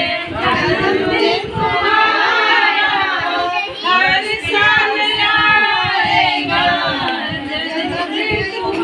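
Female voices singing an Awadhi folk birthday song.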